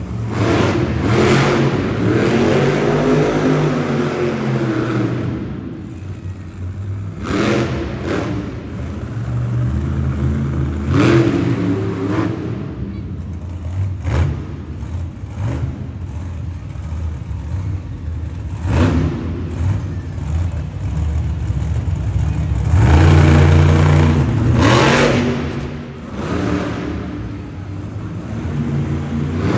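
Monster truck engine running hard and revving in repeated surges, the loudest burst of throttle a little past the middle.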